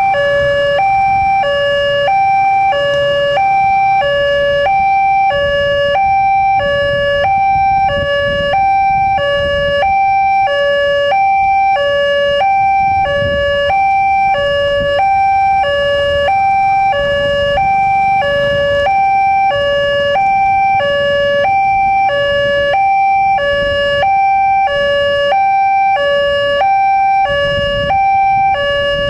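Electronic two-tone warning alarm of a railway level crossing sounding: a high tone and a low tone alternating steadily, about one high-low pair a second, with a low traffic rumble underneath. It signals that the crossing is closing for an approaching train.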